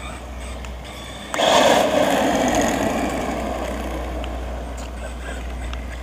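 Redcat Volcano RC monster truck launching hard: a sudden loud rush of electric motor and tyre noise about a second in, slowly fading as the truck drives away.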